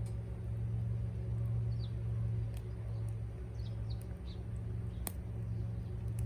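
A steady low rumble runs under a few short bird chirps around two and four seconds in. Several sharp pops come from the wood campfire, the loudest about five seconds in.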